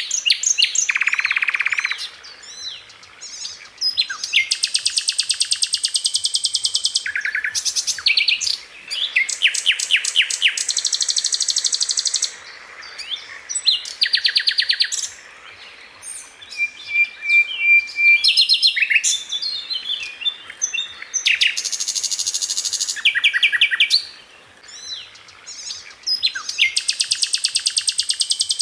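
Sikatan Londo flycatcher singing continuously in loud, high phrases of a second or two. Most are very fast rattling trills of rapid-fire repeated notes, mixed with short chirps and a few whistled notes, with brief pauses between phrases.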